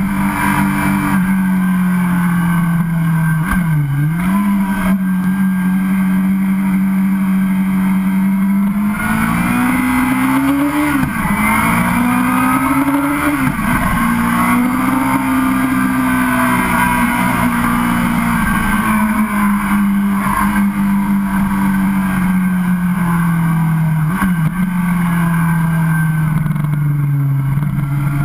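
Yamaha YZF-R6 600 cc inline-four engine heard from onboard, running at steady mid revs. Its note rises and falls gently and drops briefly a few times as the throttle is rolled off or a gear is changed, with wind rush over the bike.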